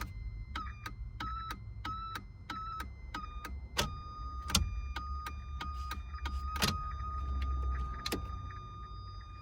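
The annoying electrical noise a Ford Fiesta Mk3 makes with its lights switched on. A high-pitched tone with sharp clicks cuts in and out in short pulses about one and a half times a second, then holds steady from about four seconds in. A faulty relay is suspected.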